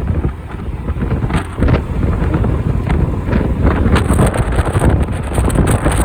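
Strong typhoon wind buffeting the microphone of a moving motorcycle, a loud, gusting rumble.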